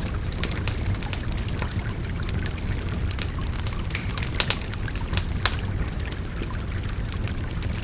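Wood fire crackling, with frequent sharp pops and snaps, over the steady rush of a babbling river. A few louder pops come a little past the middle.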